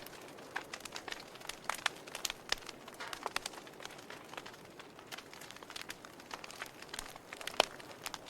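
Wood fire crackling: irregular sharp pops and snaps over a soft steady hiss, with one louder pop near the end.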